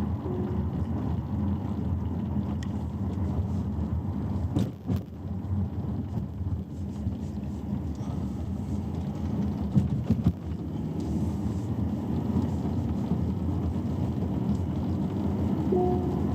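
Car on the move: a steady low rumble of road and drivetrain noise, with a few sharp clicks.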